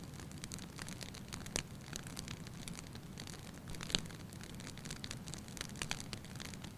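Wood fire burning in a fireplace, crackling steadily with frequent small pops and a few sharper snaps, the loudest about a second and a half in and again about four seconds in.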